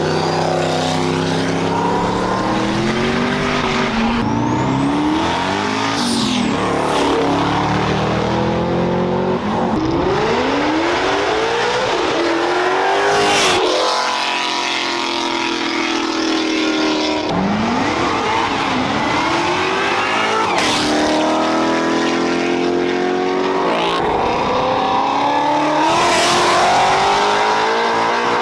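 Car engine revved hard over and over, its pitch climbing and dropping every couple of seconds, over a steady hiss of tyre noise, as in a burnout.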